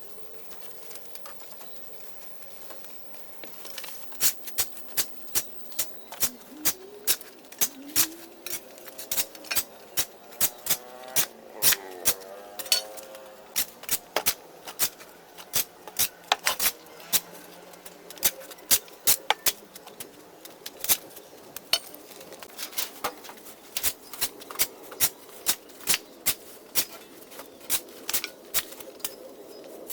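Sharp, irregular clicks, about two to three a second, starting about four seconds in, with a brief faint wavering pitched sound near the middle.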